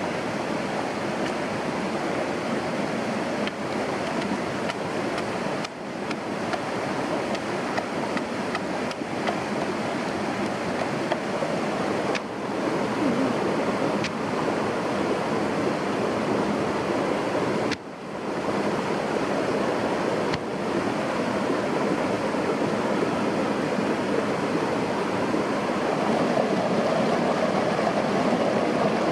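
Steady rushing of water, an even noise with no rhythm, broken by brief dips in level a few times where the footage cuts, with a few faint ticks over it.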